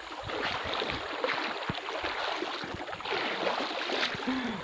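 Floodwater sloshing and splashing as a person wades through it on foot, a steady churning dotted with many small splashes.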